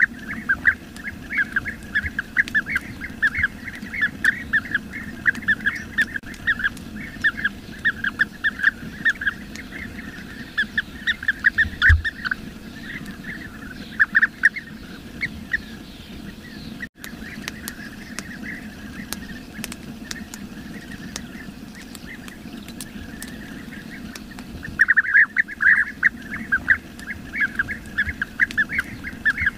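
Bee-eaters giving rapid, rolling short calls, many birds at once; the calls thin out about halfway through and crowd back in near the end.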